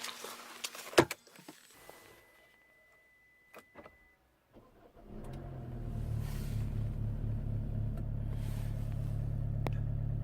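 A sharp thump about a second in, then a few quiet clicks. A car engine starts about five seconds in and settles into a steady idle.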